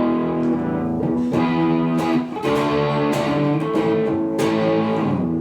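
Epiphone Les Paul electric guitar, freshly refretted with stainless steel frets, being strummed. It plays a run of chords, each ringing about a second before the next strum.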